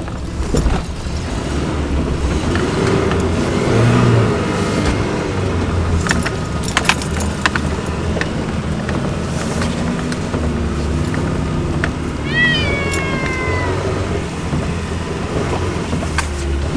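Truck engines running and revving under load as a chain of trucks pulls a stuck truck out of the snow. A short high squeal falls in pitch about twelve seconds in, and there are a few sharp clicks.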